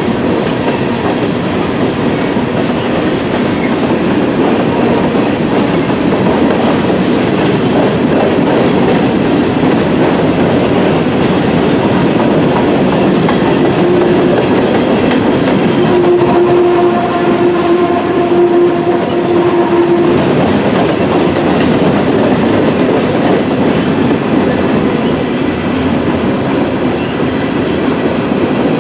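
Empty coal hopper cars of a Norfolk Southern freight train rolling steadily past at close range. A steady tone is held for several seconds in the middle.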